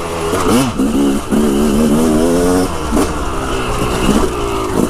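Yamaha dirt bike engine revving while riding, its pitch climbing and dropping several times as the throttle is worked.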